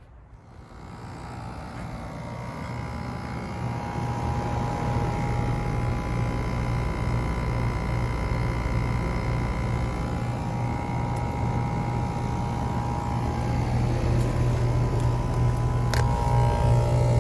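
Outdoor heat pump unit running, a steady hum from its compressor and fan with a few steady higher tones over it; the sound swells over the first few seconds and then holds. A single sharp click sounds near the end.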